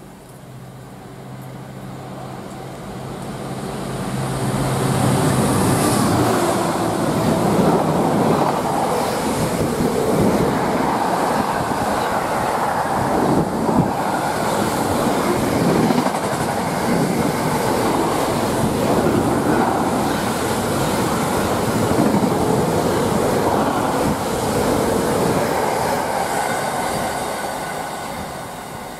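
Container freight train hauled by a Class 66 diesel locomotive passing at speed. The locomotive's engine drone gives way to a long, steady rumble and clickety-clack of container wagons on the rails, which fades near the end as the last wagon goes by.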